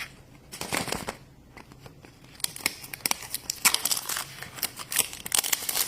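Wrapper of a surprise-egg toy being torn and crinkled open: a rapid series of crackles that grows busier about two and a half seconds in.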